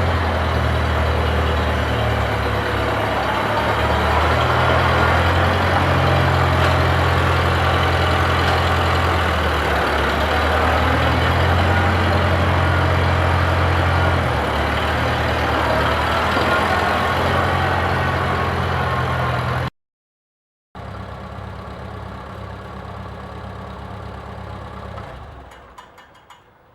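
Small four-cylinder Farmall tractor engine running, its pitch shifting a few times with throttle changes. About two-thirds of the way through it cuts out for a second, comes back quieter, and dies away near the end.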